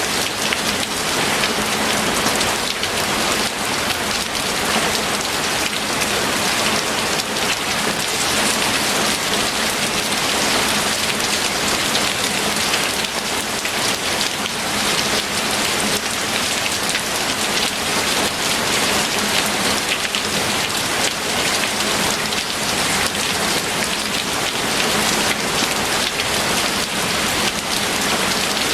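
Steady rain falling on a surface, a dense, even patter of many drops.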